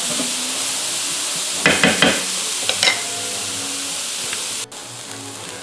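Chopped onion, celery and bell pepper sizzling in a skillet in rendered sausage and chicken fat, with a utensil scraping and clattering against the pan a few times as the vegetables are stirred to lift the browned bits off the bottom. The sizzle drops abruptly quieter near the end.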